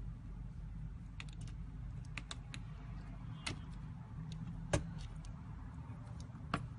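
Irregular small clicks and taps, two of them louder about five seconds and six and a half seconds in, over a steady low hum.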